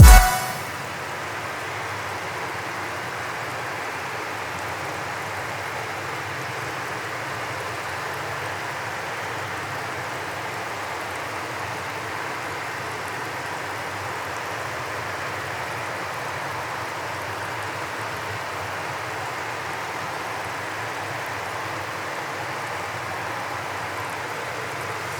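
Steady rushing of a waterfall, an even wash of falling water with no beat or melody.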